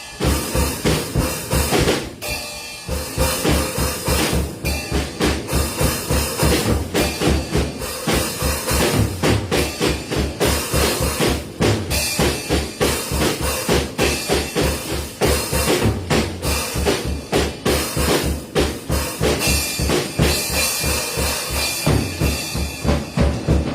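Drum kit being played: a fast, steady bass drum beat under snare and cymbal hits, with a brief break about two seconds in.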